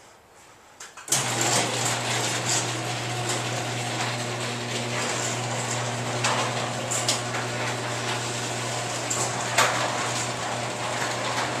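Chamberlain garage door opener starting about a second in and running steadily with a low motor hum as it drives the door along its track. A few clicks and rattles from the door and rollers come through over the hum.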